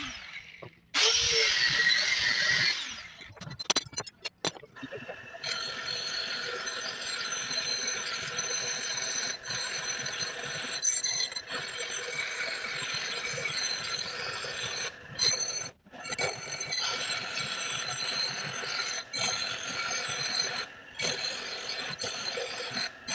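A power tool working steel: a steady grinding hiss with several high whining tones held over it, broken by a few brief stops. Near the start there is a shorter, louder squealing passage.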